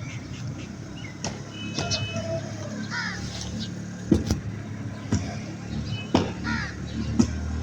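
Birds calling several times, short harsh calls a few seconds apart, over a steady low motor hum and occasional clicks.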